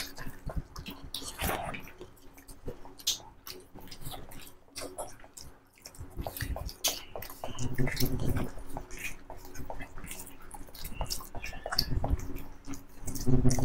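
Close-miked chewing and mouth sounds of people eating rice, curry and boiled egg by hand, with many scattered wet smacks and clicks. Louder, low, muffled sounds come around eight and twelve seconds in.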